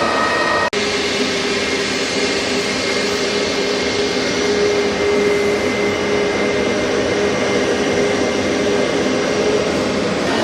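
Jet airliner engines running, a steady loud rush with a low held hum through it. The sound cuts out for an instant under a second in, then resumes.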